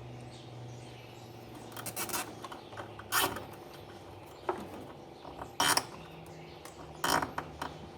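Nylon cable ties being pulled tight, four short ratcheting rasps, over a steady low hum.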